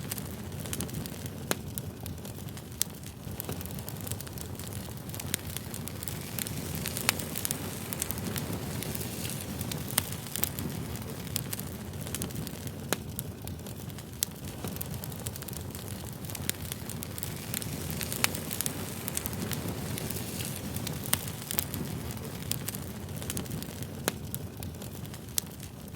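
Wood campfire burning: a steady low rumble with frequent irregular sharp crackles and pops.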